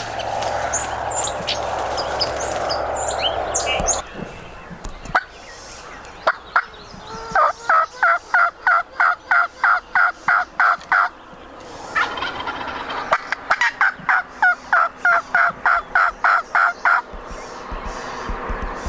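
Wild turkey calling: two long runs of evenly spaced yelp-like notes, about four a second, one after the other. A steady rushing noise with a few small bird chirps fills the first four seconds.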